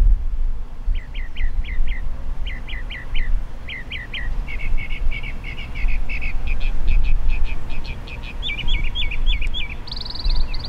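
A songbird singing: short downward-sliding notes repeated in groups of three or four, then faster runs of notes, with a brief buzzy high phrase near the end. A steady low rumble runs underneath.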